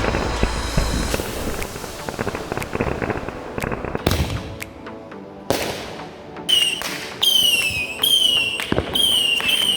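Fireworks going off: a rapid scatter of sharp cracks and pops, and in the second half a run of about five whistling fireworks, each whistle falling in pitch.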